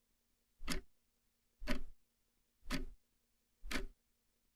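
Clock ticking sound effect, four evenly spaced ticks about a second apart, used as a countdown timer for answering the question.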